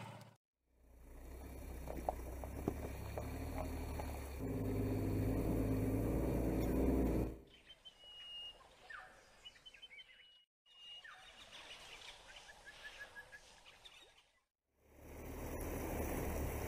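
A low steady rumble for the first several seconds. Then a quiet stretch of short, high bird chirps. Near the end comes loud rushing noise of a safari vehicle driving into a shallow river crossing.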